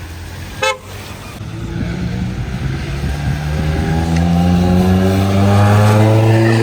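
Modified car's engine revving up, its pitch climbing steadily and getting louder over several seconds. A brief, sharp blip comes before it, under a second in.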